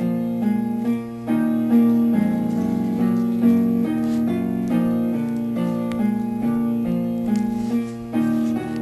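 Background music played on an electronic keyboard with a piano sound, a self-composed computer track: a melody of short notes changing about every half second over a held low note.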